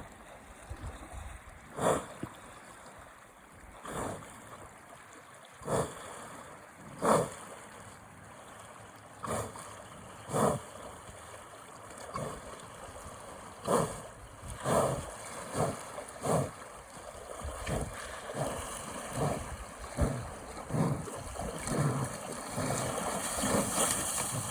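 Madison River flowing, with sharp knocks every few seconds that become a steadier series of steps on stones, about one a second, in the last third.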